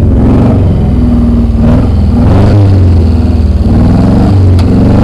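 Car engine running and being revved, its pitch rising and falling several times, with a short click about four and a half seconds in.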